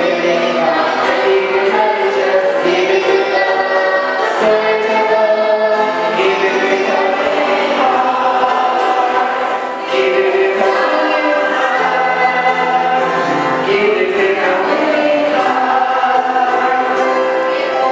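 A choir singing a gospel hymn in sustained, multi-voice phrases, with a brief dip between phrases near the middle.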